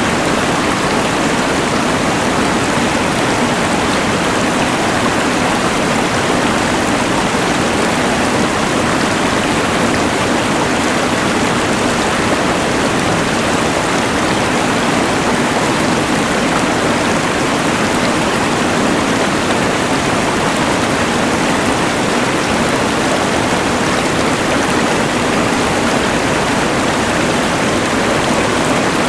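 Rushing mountain river layered with the hiss of a LectroFan white noise machine: a dense, even rush of water and noise that never changes.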